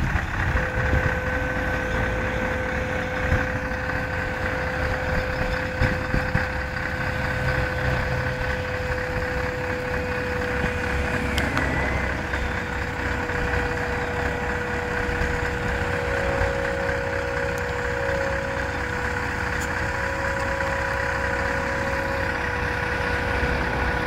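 Scania 164L truck's V8 diesel engine and an asphalt paver running together at a steady idle: a continuous low rumble with a constant whine over it.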